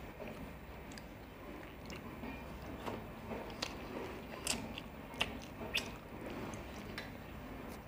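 Close-miked chewing and wet mouth sounds of a person eating fish curry and rice by hand, with several sharp lip smacks and clicks.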